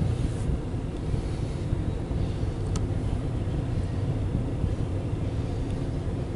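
Double-stack container cars of a CSX intermodal freight train rolling past, a steady low rumble of steel wheels on rail. One sharp click about three seconds in.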